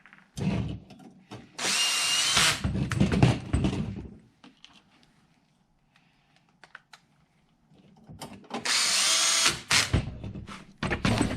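Cordless drill driving screws into the frame in two short runs, about two seconds in and again about nine seconds in, its motor whine rising during the first run. Clicks and knocks of the tool and parts being handled come between the runs.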